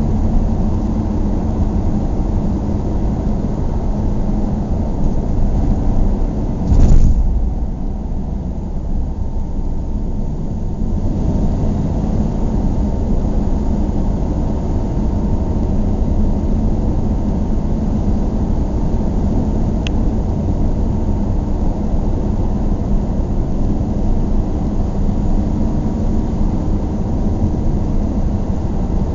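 Steady low rumble of a moving vehicle, with one short loud bump about seven seconds in.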